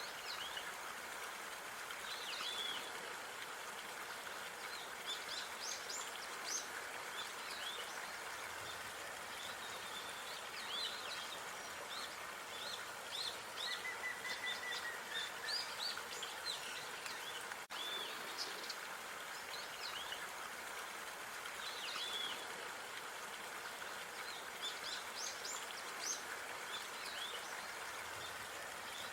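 Small birds chirping and calling repeatedly in short, high notes over a steady background hiss of park ambience, with a brief click about two-thirds of the way through.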